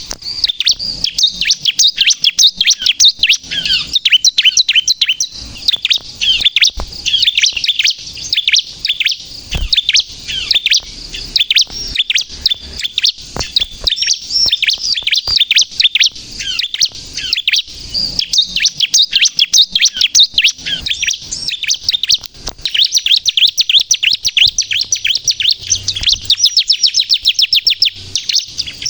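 Bar-winged prinia (ciblek, kristal variety) singing vigorously: a continuous, rapid stream of high-pitched chirping notes with no pauses, the kind of song used to lure wild ciblek and set other birds singing.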